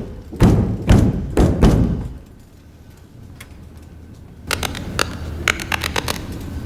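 Four heavy thumps about half a second apart, then a quieter stretch and a run of sharp clicks and scrapes near the end.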